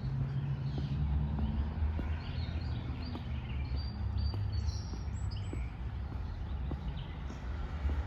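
Low, steady rumble of street traffic with small birds chirping, a run of short high chirps in the middle.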